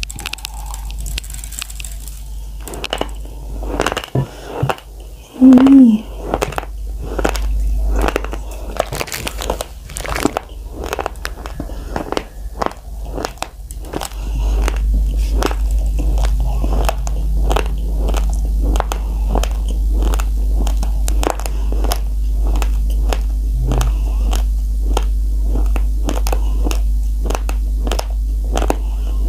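Close-miked chewing of a mouthful of uncooked raw rice: a long, steady run of crisp crunches as the hard grains are broken between the teeth. A brief loud sound about five and a half seconds in.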